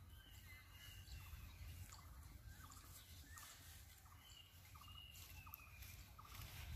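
Near silence: faint bird calls, short high chirps, some falling in pitch, and a few small repeated notes, over a low rumble.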